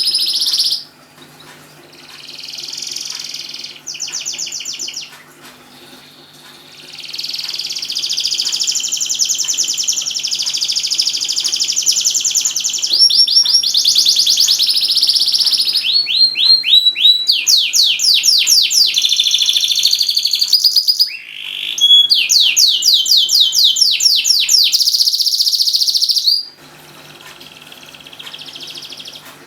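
Domestic canary in full song: long, loud phrases of fast trills and rapid runs of repeated sweeping notes. There are short breaks in the first few seconds, and the song drops to a quieter phrase near the end.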